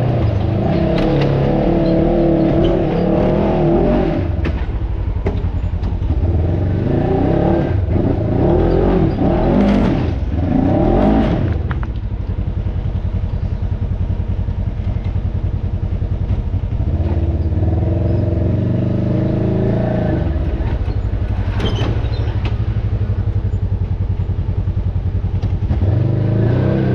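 Off-road vehicle's engine running under load on a trail, revving up and falling back several times, with scattered knocks and clatter.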